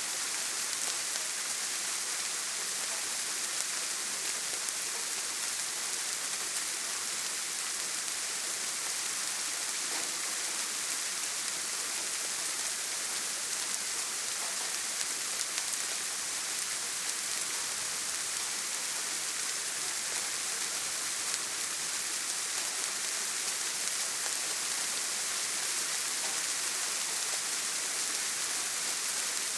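Steady heavy rain on a tin roof: an even, unbroken hiss with no thunder.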